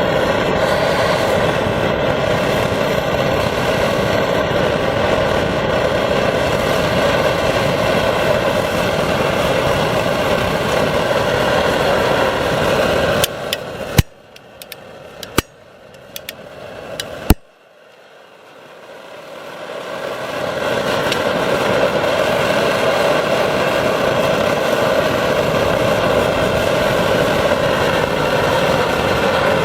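Phoebus 725 gasoline pressure stove burning with a steady roar. About 13 seconds in the roar drops away with a few sharp clicks, then builds back up to full strength over about four seconds.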